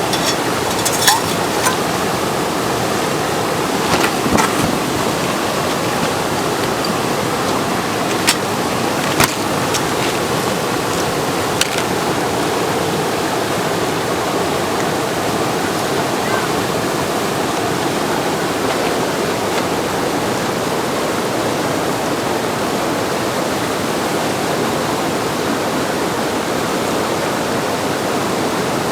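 Steady loud rush of whitewater from a river wave at high flow. A few brief sharp sounds stand out in the first dozen seconds.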